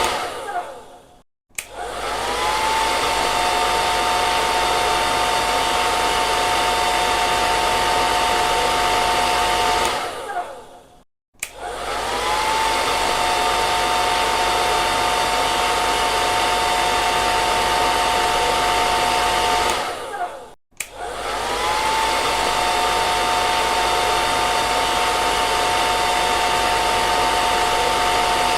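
Hair dryer blowing: a steady rush of air with a high motor whine. Three times the dryer winds down and goes silent for a moment, then starts up again. The whine glides up as the motor spins up and then holds steady for about nine seconds.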